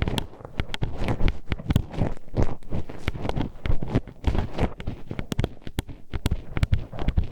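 Metal hairpin poked and scraped inside an ASMR microphone's ear: irregular sharp clicking and tapping, several a second, over low rubbing thumps.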